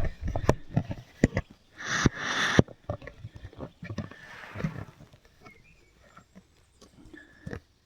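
Footsteps and rustling on the forest floor: irregular crunches and snaps of leaves and twigs underfoot, with a louder rustle lasting about a second near two seconds in. The sounds thin out towards the end.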